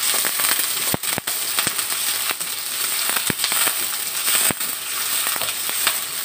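Sliced red onion and ginger sizzling and crackling as they fry in hot oil in a wok. A wooden spatula stirs them, with sharp clicks and scrapes scattered through the sizzle.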